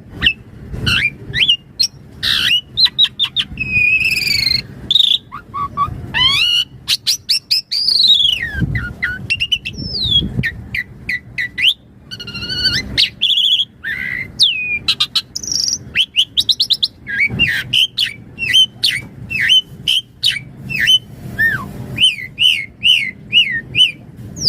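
Asian pied starling (jalak suren) in full song: a fast, unbroken string of varied whistles, rising and falling glides and chattering clicks, with repeated short phrases.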